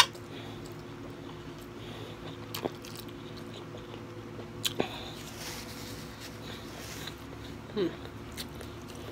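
A person chewing and biting food, with a few faint sharp clicks scattered through it and a short falling hum about eight seconds in.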